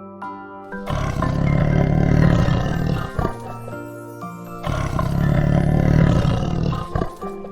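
Tiger roaring twice, each roar lasting about two seconds, over a light children's background tune.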